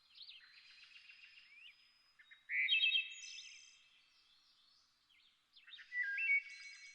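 Several birds singing: quick chirps and trills with clear whistled notes. Two louder phrases of held, stepped whistles come about two and a half seconds in and again near the end.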